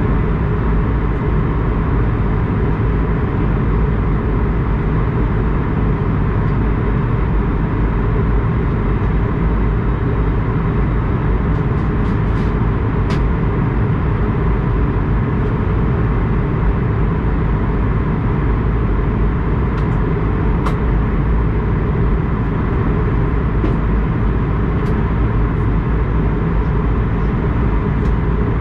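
Steady, loud aircraft noise from an Airbus A220-100's Pratt & Whitney PW1500G geared turbofan engines and airflow, a dense rumble with a faint steady whine. A few light ticks come about halfway through and again later on.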